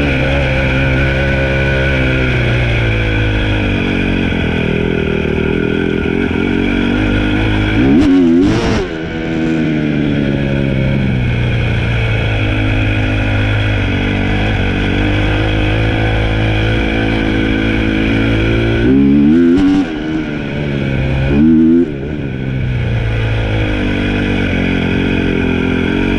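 Dirt bike engine running under way at a steady speed, revved three times, with the pitch climbing then dropping each time: once about a third of the way in, and twice close together about three-quarters through.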